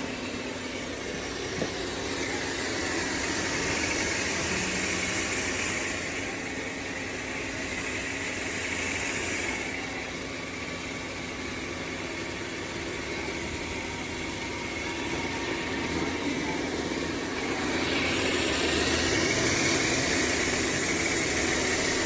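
Dreame L40 Ultra robot vacuum running: a steady motor hum under rushing suction noise, which swells louder twice, a few seconds in and again near the end.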